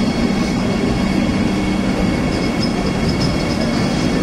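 Passenger train running alongside a station platform: a steady rumble of the coaches on the rails with a low hum underneath.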